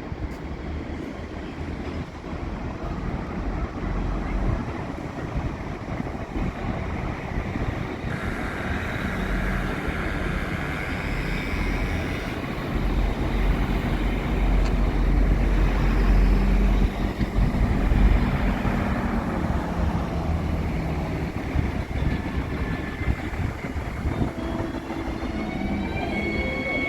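Train moving along a station platform: a steady rumble that grows to its loudest about halfway through, with a high whine for a few seconds before that, then eases off.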